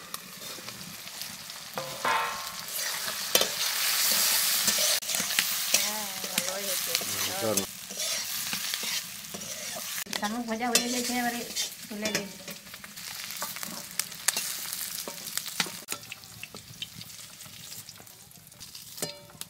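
Snails frying in hot mustard oil in a metal wok, sizzling steadily, with a metal ladle stirring and clinking against the pan. The sizzle is loudest a few seconds in and dies down toward the end.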